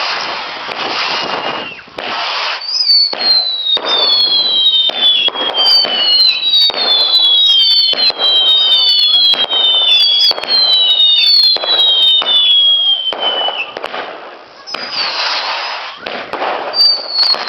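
Consumer firework display: a rapid string of whistling shots, each whistle falling in pitch and overlapping the next, over a steady hiss and crackle with sharp cracks. The whistling stops a little after halfway, leaving a burst of hiss and crackle, and a new whistle begins near the end.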